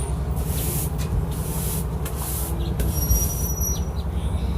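Wind rumbling on the microphone, with short hissing strokes coming every half second to a second.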